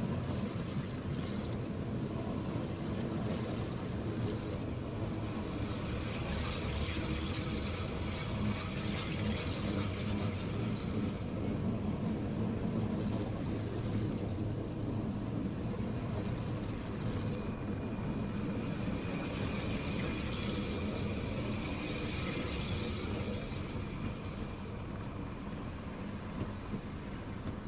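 A Rhaetian Railway electric multiple-unit passenger train rolling slowly past, a steady low rumble of wheels and running gear. A faint high whine joins about two-thirds of the way through.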